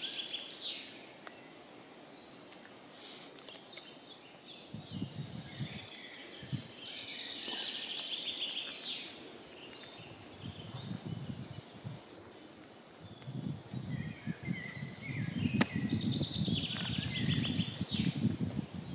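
Songbirds singing in short rapid trills, in three bouts: at the start, around eight seconds in and again near the end. Under them an uneven low rumble comes and goes from about five seconds in and is strongest in the last few seconds.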